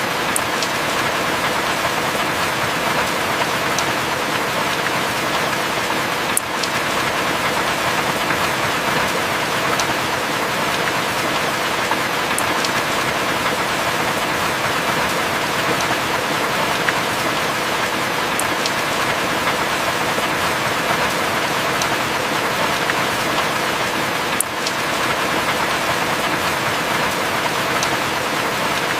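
Steady heavy rain: a dense, even hiss of falling rain with occasional sharper drop splats.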